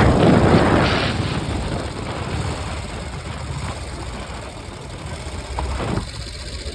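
1953 Harley-Davidson Panhead V-twin motorcycle engine running while under way, heard from its sidecar. A loud rushing swell in the first second or so eases into a steadier run.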